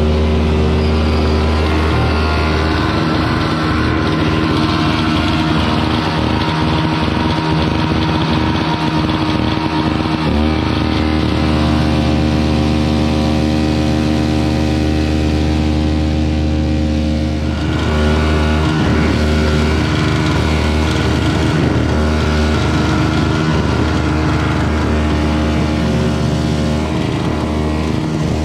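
Small snowblower's engine running steadily under load while clearing snow, its note shifting briefly a few times.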